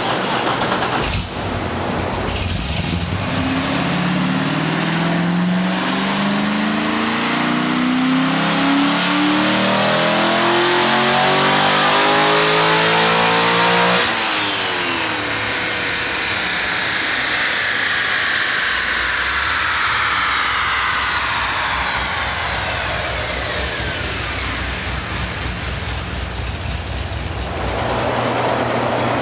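A 2007 Corvette Z06's heads-and-cam LS7 V8 makes a full-throttle chassis-dyno pull, its pitch rising steadily for about twelve seconds before the throttle shuts off abruptly. A falling whine follows as the car and the dyno rollers coast down.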